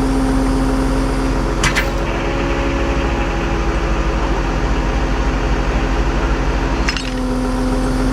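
Tow truck running during a vehicle recovery: a steady mechanical hum, with a sharp click about a second and a half in and another near the end, where a held tone in the hum drops out and then returns.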